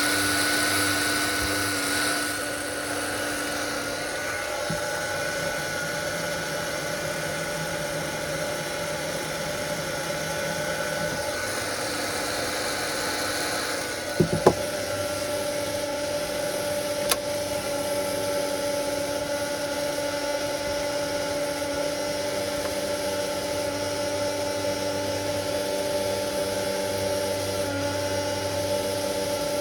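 Steady whir of a small electric motor or blower with a few steady tones that shift about halfway through. There is a short clatter at that point and a single sharp click a few seconds later.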